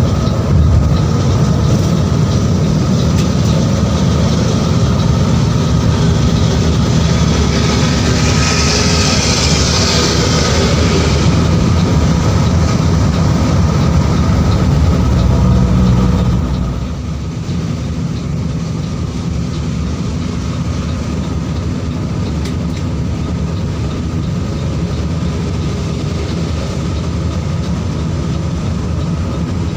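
Mercedes-Benz 1626 bus running on the road, a steady heavy rumble of engine and road noise. A hiss comes in about eight seconds in for roughly three seconds, and about seventeen seconds in the low rumble drops and carries on steadier and quieter.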